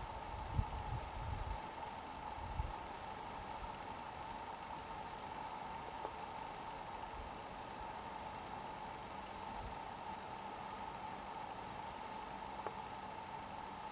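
Insects chirring in high-pitched trills that start and stop every second or so, over a steadier, lower insect drone. A few low rumbles, like wind on the microphone, come in the first two seconds.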